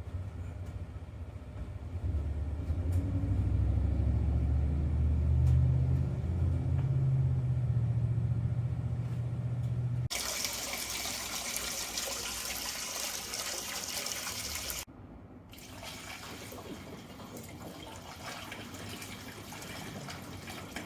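Water running into a food trailer's fresh-water tank: a low rumble for about ten seconds, then an abrupt change to a hissing rush of water that turns fainter about five seconds later.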